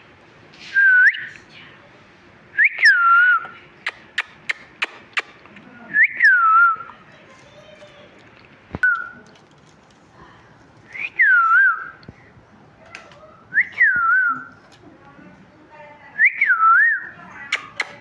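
Pet parrot giving a series of clear whistled calls, each sliding down and back up in pitch, repeated about every two to three seconds. Sharp clicks or taps sound between the calls, coming quickly near the end.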